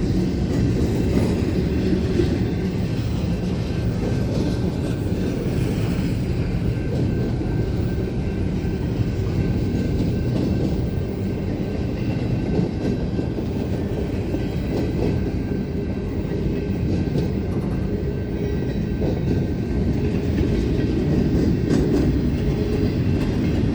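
Freight train cars rolling past at a grade crossing: a steady rumble of wheels on rail with clickety-clack over the joints.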